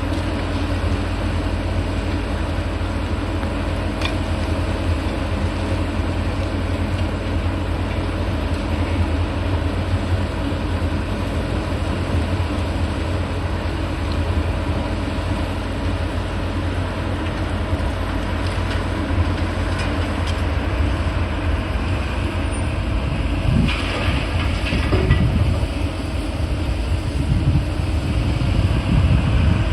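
Heavy diesel demolition machinery running steadily with a low rumble, and a short burst of rattling and crunching about three-quarters of the way through.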